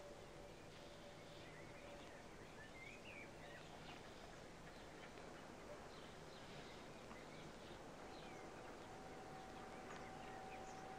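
Near silence: a faint steady hiss with a few faint bird chirps, and a faint steady hum that comes in over the last few seconds.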